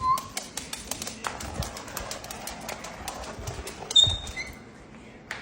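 A pet parrot making rapid, irregular clicking and tapping, several clicks a second, typical of claws or beak on a hard surface. A short chirp comes at the start and a brief high whistle about four seconds in, and the clicking thins out near the end.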